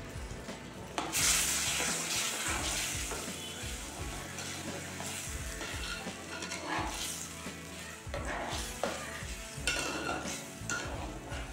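Spiced masala sizzling and frying in a clay pot, breaking into a loud sizzle about a second in as it is stirred. A metal spatula scrapes against the pot several times in the second half.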